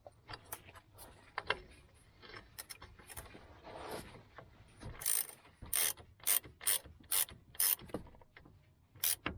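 Socket ratchet wrench being worked to tighten the lower control arm's mounting bolts. Scattered metal clicks and knocks give way, about five seconds in, to a regular run of sharp ratchet clicks about two a second.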